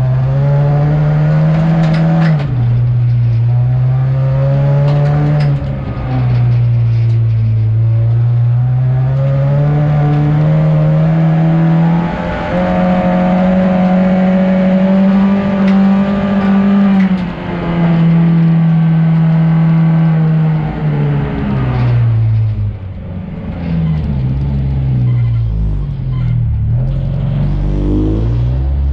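Folkrace car's engine heard from inside the stripped cabin, revving up through the gears with the pitch dropping at each shift. After about 17 seconds the engine note falls away as the car slows, with uneven throttle blips near the end.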